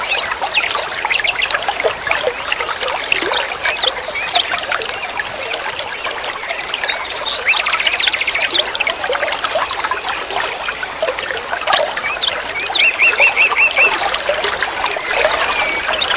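Songbirds chattering in busy, overlapping song: a dense stream of quick chirps, sweeps and short trills, with a brief buzzy passage around the middle and a fast run of repeated notes about 13 seconds in.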